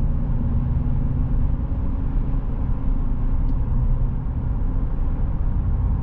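Chevrolet Silverado with an aftermarket MBRP exhaust cruising at about 48 mph, heard from inside the cab: a steady low drone of engine, exhaust and road noise.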